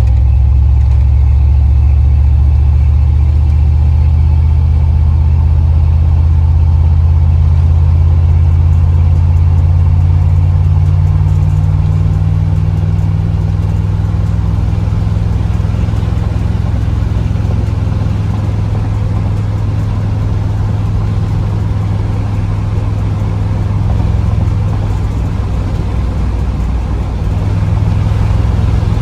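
Car engine and freshly installed aftermarket exhaust droning steadily while driving, with a deep low note. The pitch steps up partway through as the engine speeds up.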